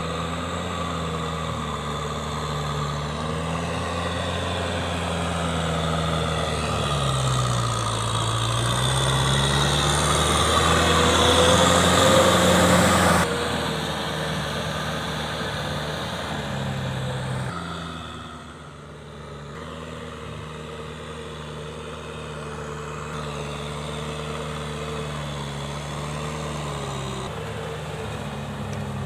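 Kubota M6040SU tractor's four-cylinder diesel engine running steadily. Its pitch sags and recovers, and it grows louder, then drops sharply about halfway through and runs quieter for the rest.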